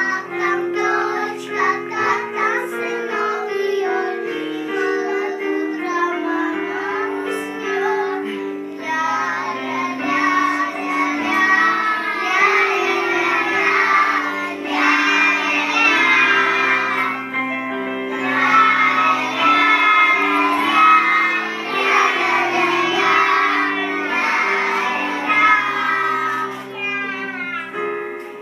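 Children singing a song over a musical backing track.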